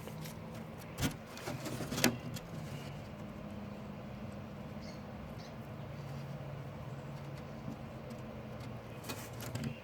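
A steady low mechanical hum, like a motor running, with a couple of sharp clicks about one and two seconds in.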